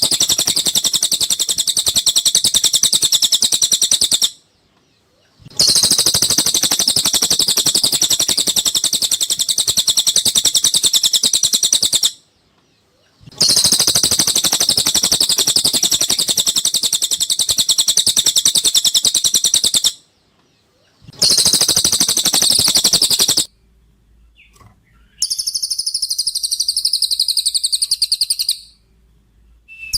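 Cililin bird singing: long, very fast high-pitched trills in phrases several seconds long, separated by brief pauses, with a shorter, wavering phrase of a different pattern near the end.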